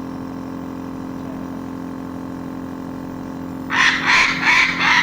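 African grey parrot giving a quick run of about four harsh, squawking calls, starting a little under four seconds in, over a steady low hum.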